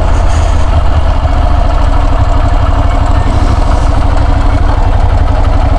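Moto Guzzi Griso's air-cooled transverse V-twin idling steadily with the bike stopped.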